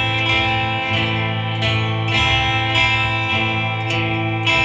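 A guitar strumming an A minor chord in a down-up pattern, first across the treble strings and then across the bass strings, the chord ringing on between strokes.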